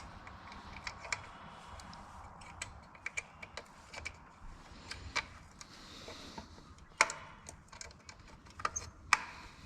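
Irregular light clicks and taps of hand work on metal parts and wiring, with a sharper click about seven seconds in and another about nine seconds in.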